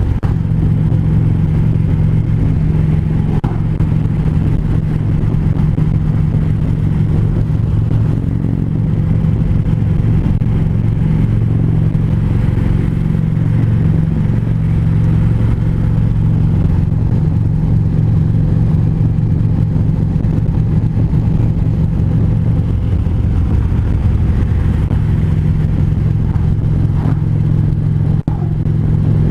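Harley-Davidson V-twin motorcycle engine running steadily at highway cruising speed, with wind and road noise. The level dips briefly near the end.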